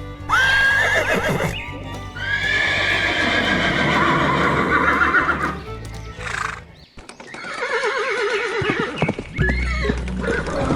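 A horse neighing: three long, quavering whinnies, the middle one the longest, over background music.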